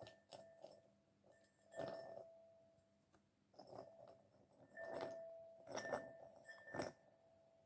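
Light taps and clinks of peanuts in the shell knocking against a hard surface, several of them ringing briefly at the same pitch, with the strongest knocks about 2, 5, 6 and 7 seconds in.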